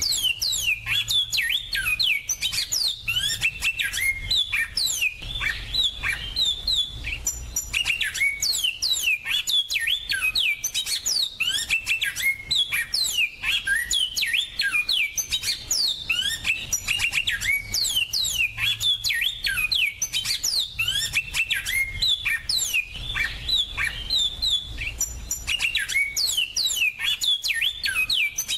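Captive finches singing in a dense, continuous stream of rapid high chirps and quick downward-sweeping whistles, barely pausing, over a faint low hum.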